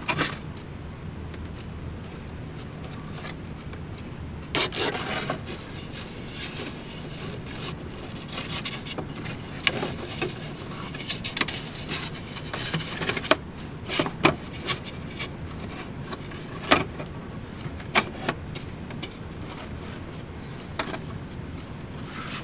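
Hands working a wicker picnic basket and its hinge pieces at the bench: rubbing and rustling, a longer scrape about five seconds in, and scattered sharp clicks and taps, most of them between about 13 and 18 seconds in, over a steady low hum.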